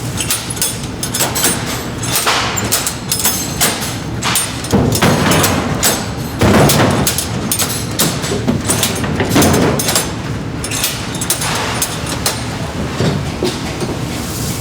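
Snack-factory production machinery running with a steady noise and frequent clattering knocks, with heavier thuds in the middle.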